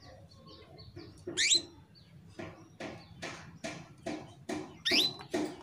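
Female canary in breeding condition calling to a male: a rising whistled note about a second and a half in, then a run of short chirps, about two or three a second, with another rising whistle near the end.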